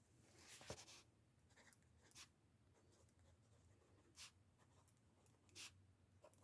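Faint scratching of a pen writing on paper: a short run of strokes about half a second in, then a few brief separate strokes through the rest.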